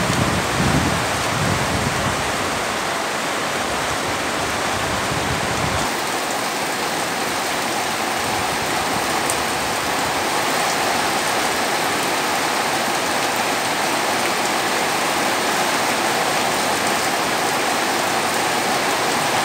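Heavy rain pouring down steadily, a dense even hiss. For the first six seconds or so, gusts of wind buffet the microphone with a low rumble, which stops abruptly.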